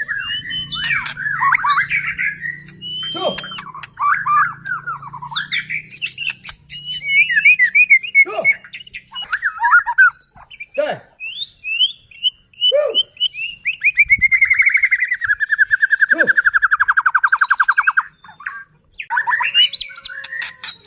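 White-rumped shama (murai batu) singing a loud, varied song of whistles, quick chatter and short sharp notes. About two-thirds of the way through it delivers a fast, even rattling trill (kretekan) held for about four seconds.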